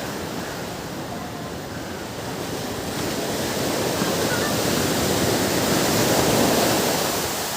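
Ocean waves on a beach: a steady wash of surf that swells over a few seconds as a wave comes in and breaks, then eases off near the end.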